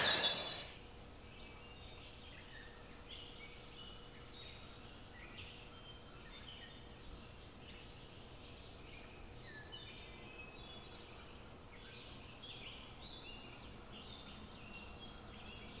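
Quiet birdsong: several small birds chirping and trilling in short high notes, one after another without pause.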